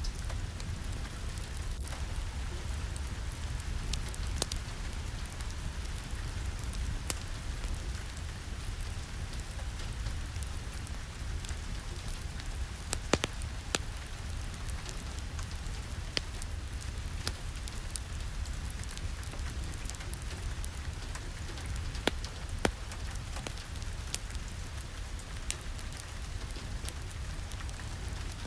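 Steady rain blended with a crackling wood fire in a fireplace, over a low rumble, with scattered sharp pops throughout.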